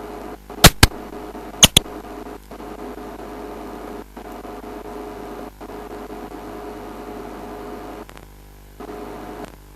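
A steady mechanical hum with two constant tones, cutting out briefly several times. Two pairs of sharp, loud clicks come in the first two seconds.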